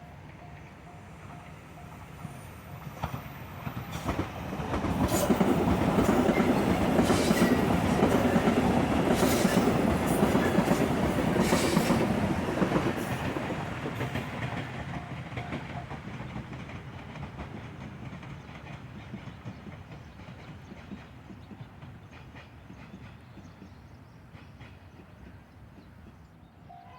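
A train passing over a level crossing. It builds up about four seconds in, is loudest for roughly the next seven seconds with wheels clacking over the rail joints, then fades slowly away. A level-crossing warning bell rings faintly at the start.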